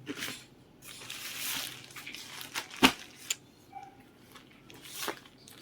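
Clothing packaging crinkling and rustling in irregular bursts as a new shirt is handled, with a sharp click about three seconds in.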